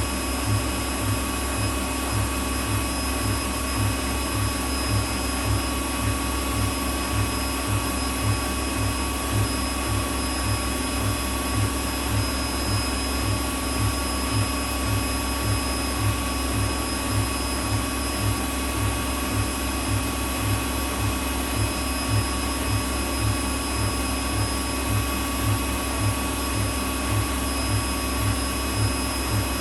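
Whirlpool WWDC 7440 washing machine spinning at high speed, running at up to 1,400 rpm: a loud, steady whir from its carbon-brush motor and drum, with a regular low throb.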